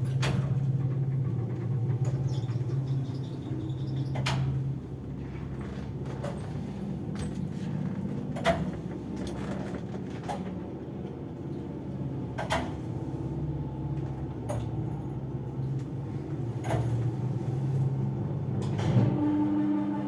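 Samarkand passenger lift running, with the steady drone of its gearbox and 4AN-160 motor; the uploader calls the gearbox loud and worn. A sharp click comes about every four seconds, and near the end the hum changes as new higher tones come in.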